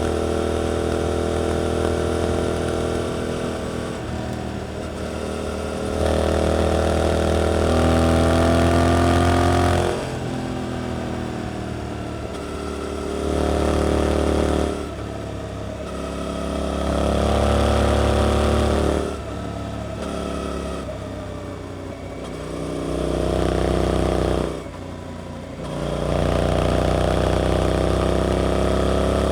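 Suzuki GSX-8S's 776 cc parallel-twin engine through an Arrows performance exhaust, riding. The engine note rises and falls about five times as the throttle is opened and rolled off, with short sharp drops between pulls.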